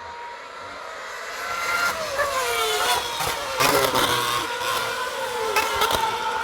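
Race cars passing one after another at speed, growing louder from about two seconds in. Each car's engine note falls in pitch, and there are several sharp cracks along the way.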